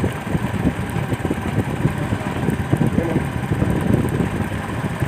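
Motorcycle engine running as it rides over a rough, partly unpaved road, a noisy uneven rumble without steady tones.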